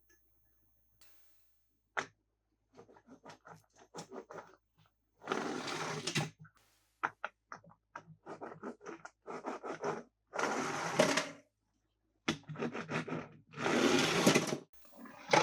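Plastic toy parts being handled: a sharp click, then quick clicking and tapping, then several rattling, scraping stretches of about a second each.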